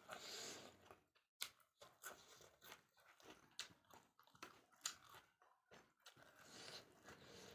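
A person chewing and biting into chicken and rice close to the microphone: an irregular scatter of sharp wet mouth clicks and small crunches, faint overall.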